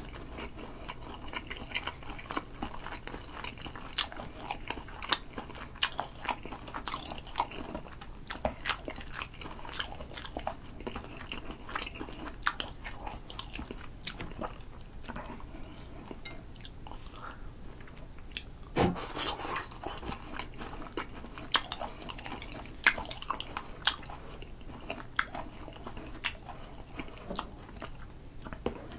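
Close-miked chewing of grilled spicy-glazed sea eel: many wet mouth clicks and smacks, with some crunching.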